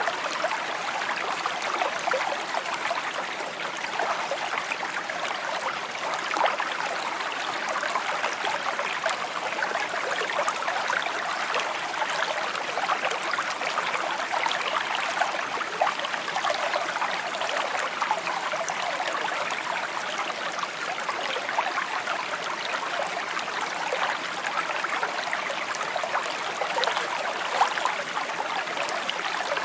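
A shallow creek babbling and trickling over stones, a steady, even flow of water.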